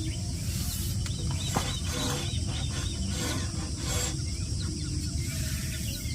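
Outdoor ambience: a steady low wind rumble on the microphone, with a short run of small bird chirps about two seconds in.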